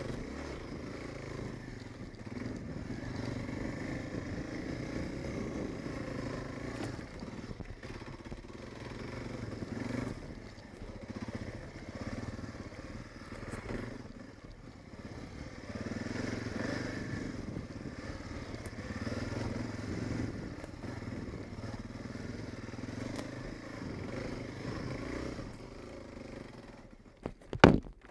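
Honda AX-1 single-cylinder four-stroke dual-sport motorcycle running, its engine note rising and falling with the throttle over many seconds. A couple of sharp, loud knocks come just before the end.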